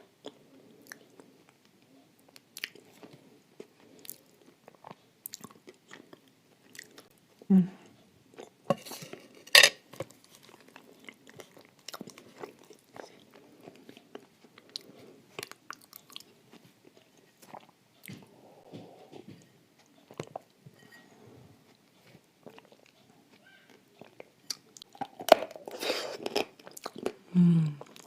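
Close-up chewing and crunching of dry edible clay eaten with blue Uzbek clay paste: many small sharp crackles, with louder bites about a third of the way in and again near the end.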